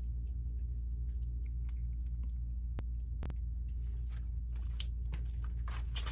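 A steady low electrical hum, with scattered small clicks and short crunching, chewing-like noises over it and two sharp clicks a little past the middle.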